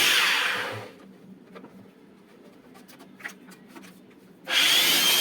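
Handheld electric blower running at full speed. It winds down to quiet within about a second, a few faint clicks follow, and then it starts again about four and a half seconds in with a steady high whine. The motor, its jammed bearing freed, is spinning freely again on test.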